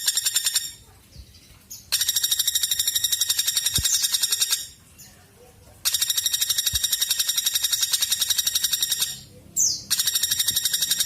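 Woodpecker giving a rapid, even rattling call of about a dozen high notes a second, in runs of two to three and a half seconds with pauses of about a second between. A brief falling whistle comes in near the end.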